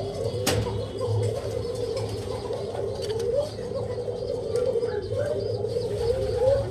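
Yemeni pigeons cooing without a break, a rolling, wavering coo that never stops. A single sharp click comes about half a second in.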